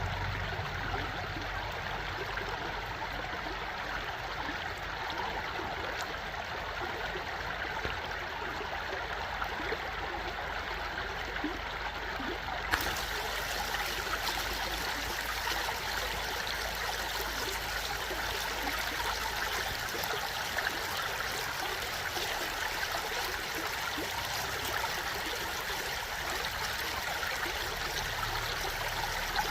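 Steady running water of a stream, trickling and gurgling without a break; the hiss turns brighter about thirteen seconds in.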